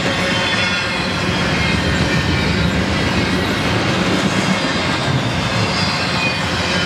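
Double-stack intermodal container well cars rolling past at close range, a steady noise of steel wheels running on the rails.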